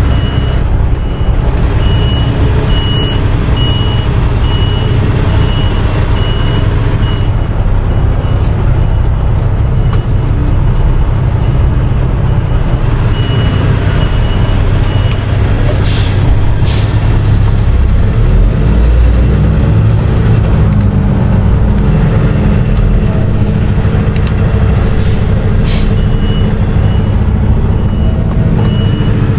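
Heavy truck's diesel engine running at low speed, with a reversing alarm beeping in an even on-off rhythm for the first several seconds and again near the end. A few short hisses of air come through about halfway and again near the end.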